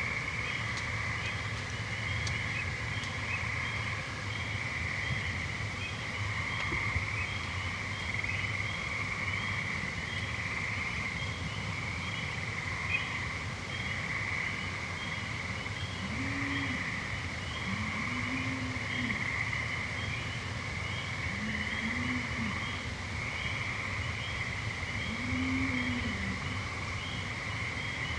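Evening chorus of gray treefrogs and American toads: many overlapping trills blend into a steady, slowly swelling drone. In the second half, four low hums each rise and fall in pitch over about a second.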